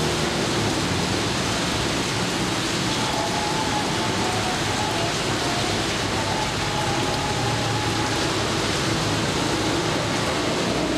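Steady rain falling, an even continuous hiss, with a faint steady hum underneath.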